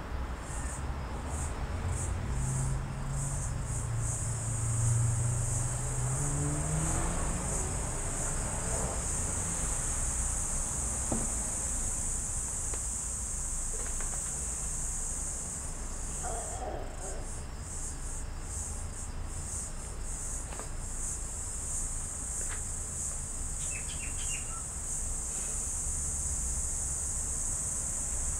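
A steady, high-pitched insect chorus, pulsing in the first few seconds and again about two-thirds of the way through. A low hum sits underneath, with a low drone rising in pitch over the first several seconds.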